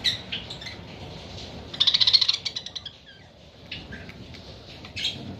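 Budgerigars chirping, with a burst of rapid chattering about two seconds in and single short chirps scattered through the rest.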